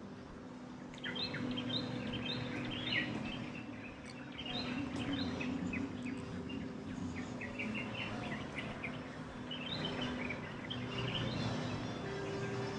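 Small birds chirping and twittering in quick clusters, starting about a second in, over a steady low hum.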